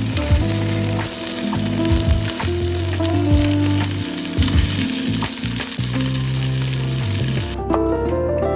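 Food sizzling as it fries in a pan, with occasional sharp clicks, over soft background music. The sizzle cuts off suddenly near the end, leaving the music.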